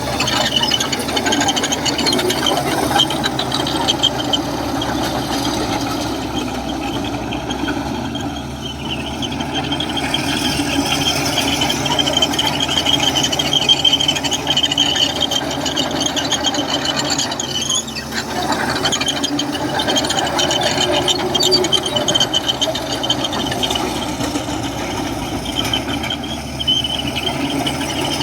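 Komatsu bulldozer working: its diesel engine runs steadily under a continuous, wavering high-pitched squeal.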